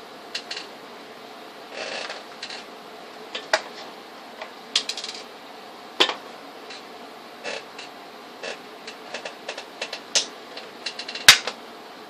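Irregular small clicks and taps of tools and parts being handled during a laptop repair, with one sharper click near the end, over a steady background hiss.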